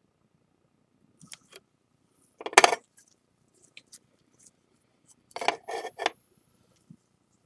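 Small hard objects handled on a work surface: a few light clicks, then a short loud clatter, then a second cluster of knocks and clinks nearer the end.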